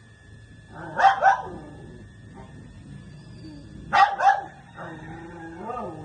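Parrot imitating a dog's bark: two quick barks about a second in, two more about four seconds in, then a quieter wavering call near the end.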